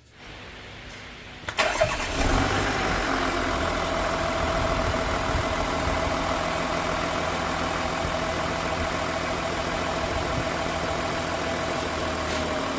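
Volkswagen Touareg V6 TDI diesel engine cranking for about a second and a half, catching, then idling steadily with a whine that sinks slightly as the idle settles. This is the engine starting again after the faulty, constantly spraying injector was replaced and the new one coded in.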